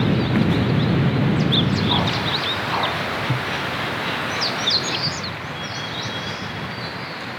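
Steady rain with birds chirping: clusters of short high chirps about two seconds in and again around four to five seconds. A deeper rumble under the rain fades away over the first two seconds.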